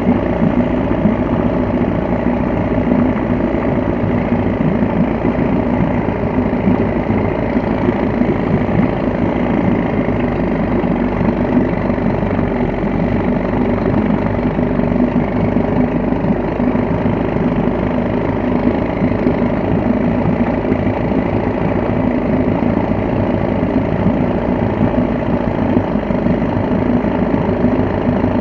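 Veterok-12 two-cylinder two-stroke outboard motor running steadily on its first start after winter storage.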